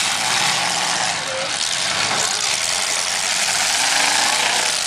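Several demolition derby cars' engines running and revving together as the cars push against each other, a loud, steady wash of engine noise with no single crash standing out.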